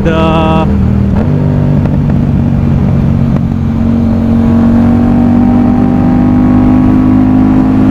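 Yamaha MT-07's CP2 parallel-twin engine through an aftermarket exhaust, heard from the rider's seat while riding. The engine note steps up a little over a second in, then climbs slowly and steadily as the bike gathers speed.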